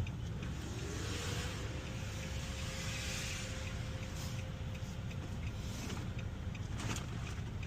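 Car engine idling, heard from inside the vehicle: a steady low rumble. A faint steady whine rises in about half a second in and holds for several seconds, with a short click at the very start and another near the end.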